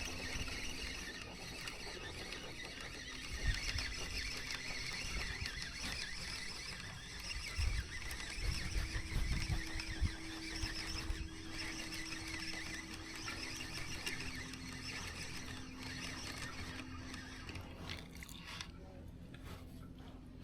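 Fishing reel being cranked steadily during a lure retrieve, giving a continuous high whirr, with a few dull low knocks along the way.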